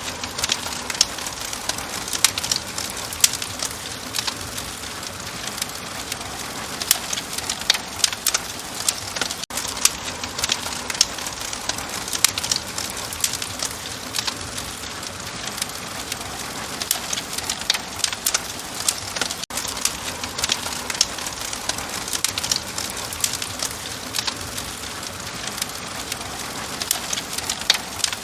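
Open wood fire crackling steadily, with frequent sharp pops and snaps over a soft hiss.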